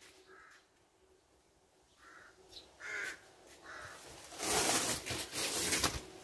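A bird calls four times in short calls, crow-like, spread over the first four seconds. After about four seconds a louder rough, hissing noise runs for nearly two seconds.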